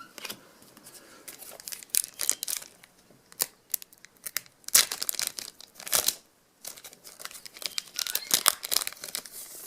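A foil trading-card pack being torn open and its wrapper crinkled, in irregular bursts of crackling and rustling.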